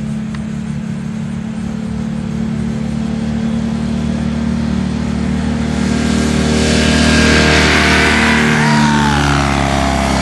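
Light airplane's piston engine making a low fly-by: it grows louder, is loudest about seven to eight seconds in as it passes, then drops in pitch as it goes away. A steady low engine hum runs underneath.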